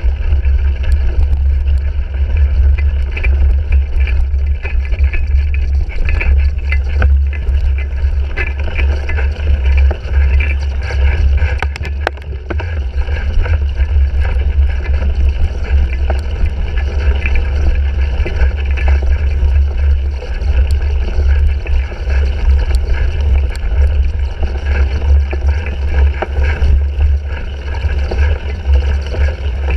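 Wind buffeting the GoPro Hero 3's microphone on a cyclocross bike being raced: a steady, loud low rumble, with scattered clicks and rattles from the bike over rough ground.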